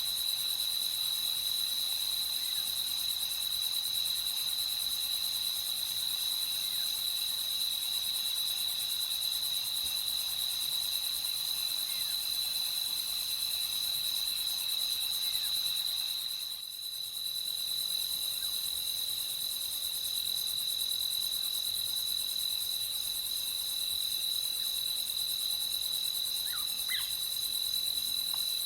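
A steady, high-pitched chorus of crickets trilling at night. It dips briefly a little past halfway through, and a couple of faint short chirps come near the end.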